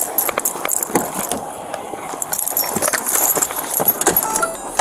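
Rattling and clinking of a police officer's keys and duty gear on the move, with many sharp clicks and rustle against the body-worn camera. A few short electronic beeps at different pitches come in near the end.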